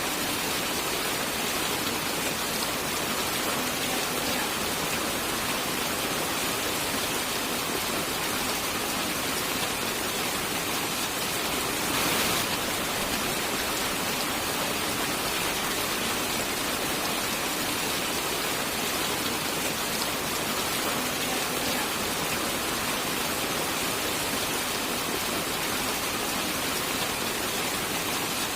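Steady rain falling, an even hiss with no pauses, swelling briefly louder about twelve seconds in.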